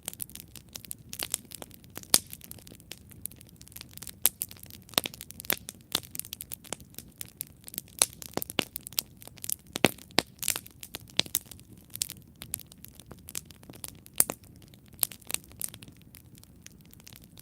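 Wood campfire burning, crackling with many sharp irregular pops over a soft low rush of flame.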